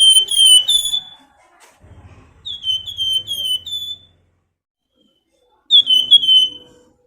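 Flamboyan songbird singing shrill whistled calls in three short bouts. Each bout is a quick run of four or five falling notes, with pauses of a second or two between bouts.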